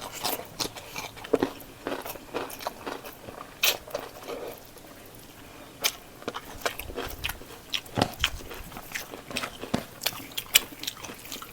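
Close-up eating sounds: chewing, wet mouth smacks and occasional crunchy bites of a rice and pork-leg gravy meal. The clicks come irregularly, with a quieter moment about halfway through.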